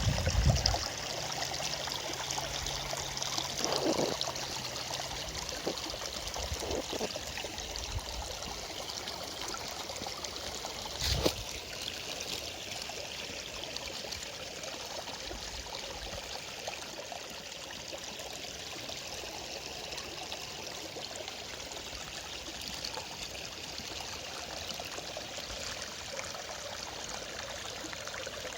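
Small forest stream running over rocks, a steady babbling and trickling. A single sharp knock sounds about eleven seconds in.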